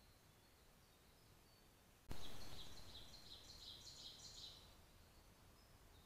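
Faint high bird chirps over a quiet hiss. About two seconds in, a sudden burst of hiss fades away while a bird sings a quick run of high, stepped notes lasting about two seconds.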